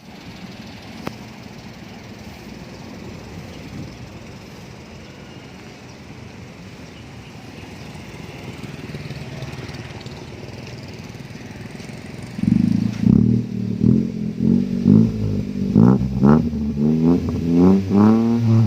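Toyota Wigo's exhaust, fitted with a Nitto aftermarket muffler, running at a steady low idle with one click about a second in. About twelve seconds in, a much louder droning, pitched sound with shifting tones takes over.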